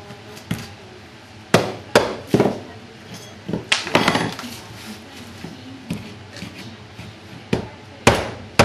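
Irregular sharp knocks and blows of a hand tool striking and breaking up water-damaged particleboard subflooring, some blows in quick clusters.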